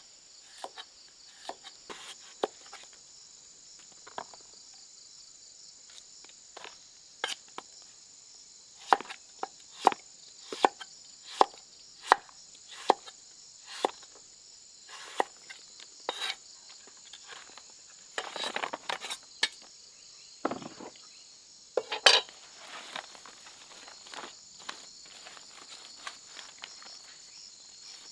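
Steady high droning of insects, with irregular sharp knocks and taps, about one a second, and two short stretches of rustling and scraping about two thirds of the way through.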